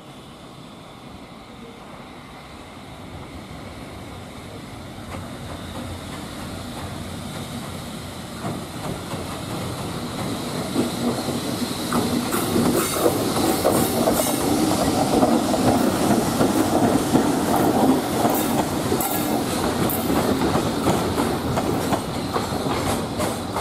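EF65 electric locomotive hauling container freight wagons, coming closer and growing steadily louder over the first ten seconds or so, then rolling past with a quick clickety-clack of wheels over rail joints.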